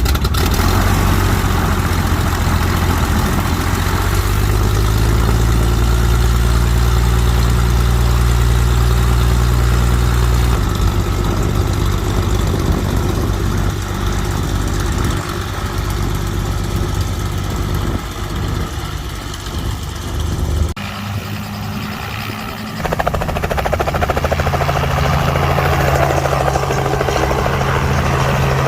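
Helicopter running nearby, its rotor giving a steady low beat under the engine noise. The sound drops away abruptly about two-thirds of the way through and returns a couple of seconds later.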